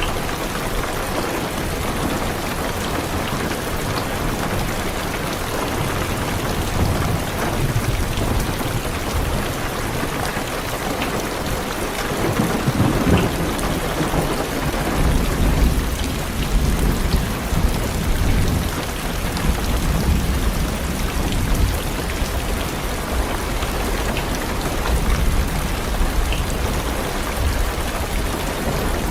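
Heavy rain drumming on a car's roof and windows, heard from inside the car, with low rolling thunder that swells in about twelve seconds in and keeps rumbling.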